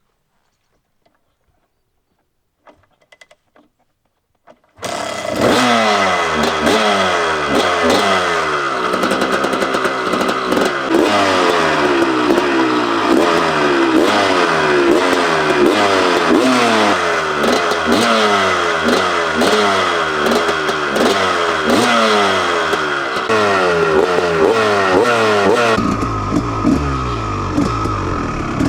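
1989 Honda CR250R two-stroke 250 cc single-cylinder motocross engine, starting abruptly out of near silence about five seconds in. It is then revved hard over and over, the pitch climbing and dropping roughly once a second. A deeper low rumble joins near the end.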